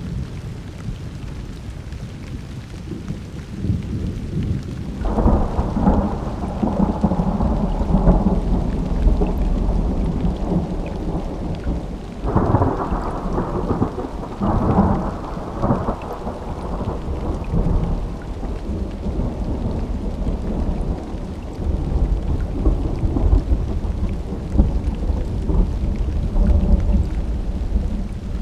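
A thunderstorm: rolling thunder with heavy rain. A loud crackling thunderclap breaks about five seconds in and another about twelve seconds in, each rumbling on for several seconds, over steady rainfall.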